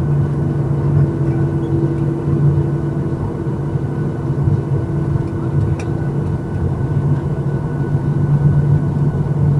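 Steady cabin drone inside a parked Boeing 737-800: air rushing from the ventilation with a low, constant hum and a few steady tones. There is a faint click about six seconds in.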